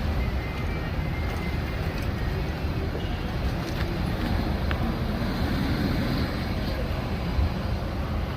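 Steady low rumble of vehicle traffic with no distinct events.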